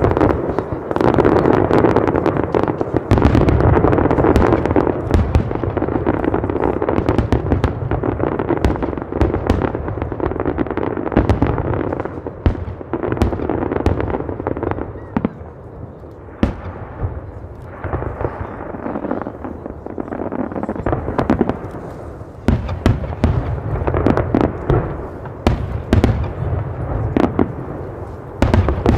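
Fireworks display: a dense run of booming bursts and sharp crackling pops over a continuous rumble, thinning out around the middle and then picking up again toward the end.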